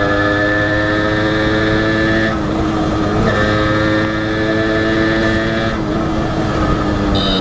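Honda CDI H100S single-cylinder two-stroke engine pulling under acceleration while riding. Its pitch climbs steadily, drops briefly at gear changes about two seconds in and again near six seconds, then climbs again.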